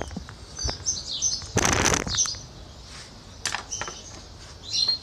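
Small birds chirping repeatedly in the background, with a few light clicks and a loud half-second rustle about a second and a half in.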